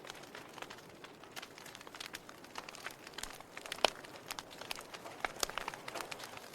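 Wood fire in a fireplace crackling, with irregular sharp pops and snaps over a faint hiss and one louder pop about four seconds in.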